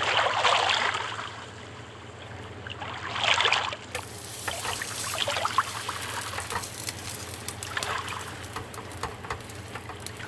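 Tortillas frying in hot coconut oil in a pan, sizzling: loud hissing surges near the start and about three seconds in, then a steady crackle with many small pops.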